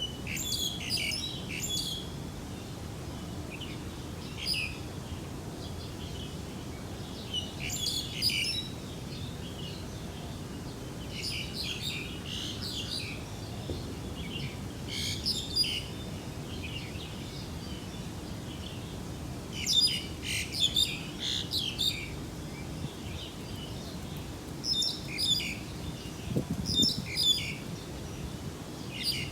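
Birds chirping in short bursts of song every few seconds, over a steady low background noise.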